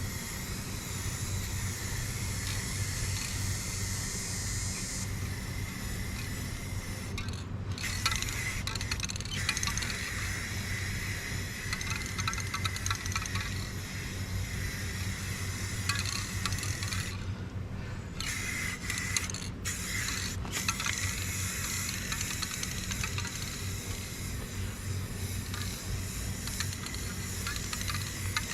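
Paint being sprayed onto a boat hull: a steady hiss that stops briefly several times, with the longest break a little after the middle, over a steady low hum.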